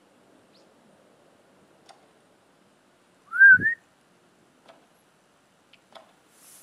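A single short whistle, rising, dipping slightly and rising again, about halfway through, with a low thump under it; a few faint clicks around it.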